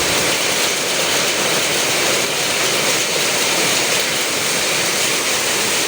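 Heavy downpour during a storm: a loud, steady, dense hiss of rain.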